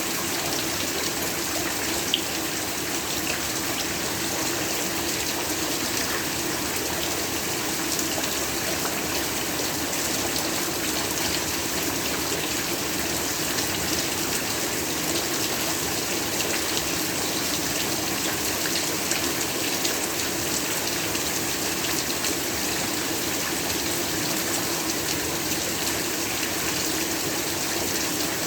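Heavy rain falling steadily, an even unbroken hiss and patter with no lulls. A single sharp click sounds about two seconds in.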